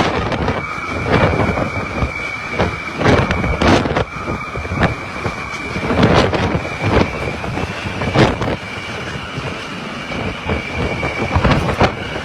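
Typhoon wind and rain with many sharp knocks and bangs at irregular intervals, over a steady high whistle.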